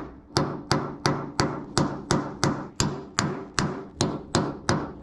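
Steady, rapid hammer blows on a boat's corroded aluminium mast base, about three a second, each with a short metallic ring, as it is beaten to break it off.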